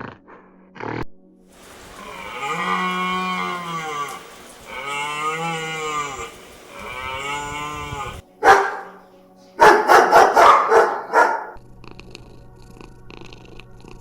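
Cow mooing: three long, drawn-out moos in a row. Then one sharp loud call and a quick run of about six short, sharp calls.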